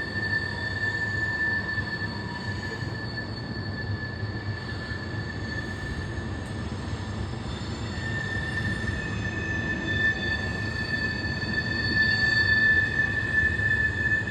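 CSX mixed freight train's cars rolling past over a low rumble, with a steady high-pitched wheel squeal. The squeal weakens about halfway through and comes back stronger, and the train grows louder near the end.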